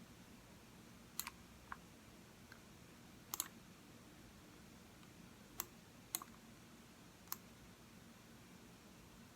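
Computer mouse buttons clicking now and then while answering an online test: about six sharp clicks a second or two apart, a couple of them in quick pairs, over faint room hum.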